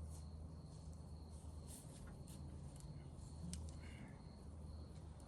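Insects trilling steadily at a high pitch over a low, steady hum, with a few faint clicks and a short chirp a little past the middle.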